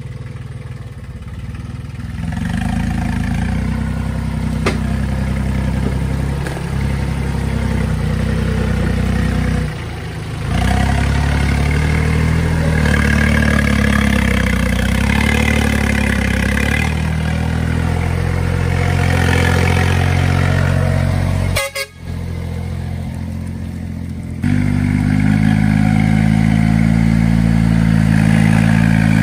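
Farm tractor engine running loudly, its engine speed shifting several times, with a brief dip about ten seconds in and a sudden short break near the twenty-second mark.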